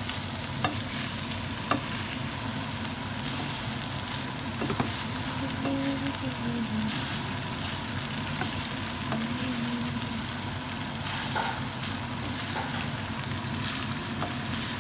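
Chicken fajitas with bell pepper sizzling steadily as they fry in a pan, with a few light clicks.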